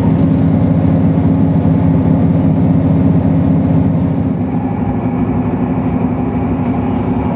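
Inside a diesel passenger train running at speed: a steady engine drone mixed with rumbling running noise, the engine note easing about halfway through.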